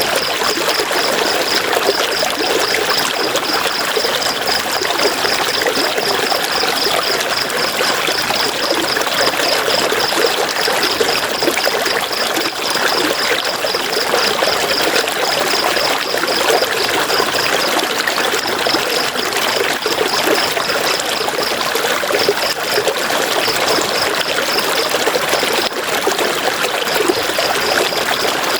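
River water flowing steadily, with a continuous rushing and trickling. Over it runs a high-pitched, rapid pulsing chirp, several pulses a second, which breaks off and resumes a few times.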